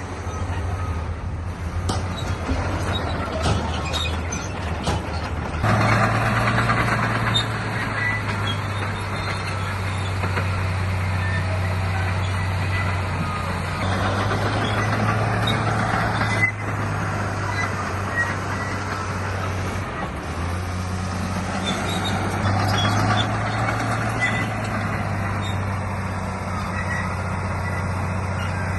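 Diesel engine of heavy earth-moving machinery working under load, its note stepping up about six seconds in and shifting again twice, with a continuous rattling clatter over it.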